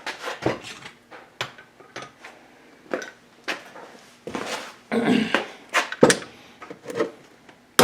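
Hammer blows on metal at an irregular pace, driving a press-fit part home into a VW link-pin front beam's spindle assembly; the heaviest blows fall about five to six seconds in.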